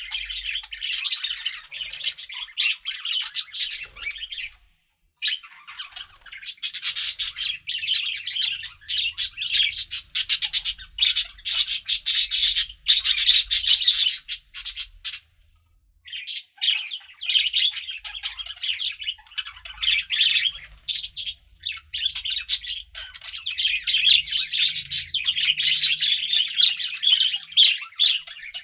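Budgerigars chirping and chattering in a dense, continuous warble of quick high calls, briefly pausing about five seconds in and again around the middle.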